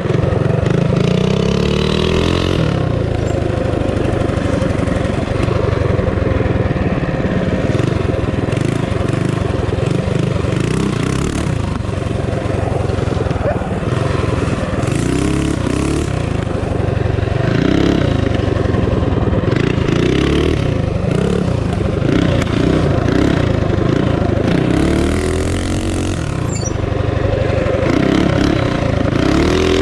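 Minibike's small single-cylinder four-stroke engine running hard under a riding load, its pitch rising and falling over and over as the throttle is opened and eased off.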